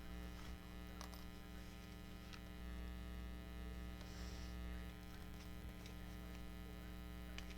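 Steady electrical mains hum, with a few faint clicks of paper and thread being handled while a needle is worked through a journal's signatures.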